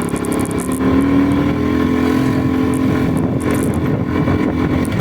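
Vehicle engine running under way, its note changing pitch about a second in and then holding steady.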